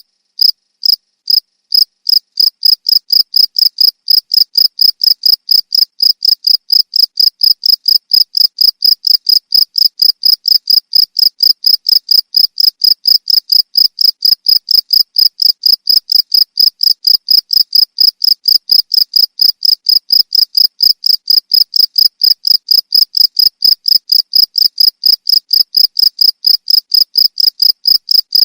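Cricket chirping in a steady rhythm of short, high chirps, about three a second, a little slower and uneven in the first couple of seconds.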